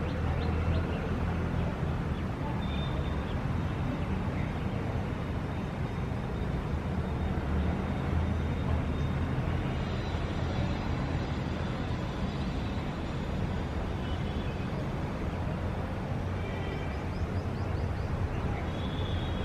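Steady low city traffic rumble, with a few faint high chirps that may be birds.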